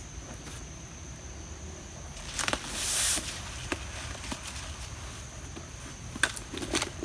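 Outdoor ambience with a steady faint hiss and a thin high steady tone. About two and a half seconds in comes a loud rustling rush lasting under a second, and near the end a cluster of sharp clicks and knocks.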